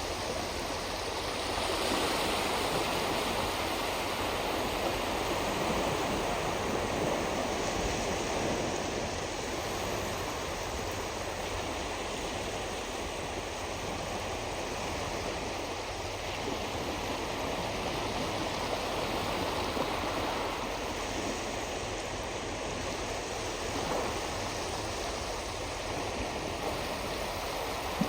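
Small waves washing on a shoreline: a steady rushing of surf that swells and eases slowly.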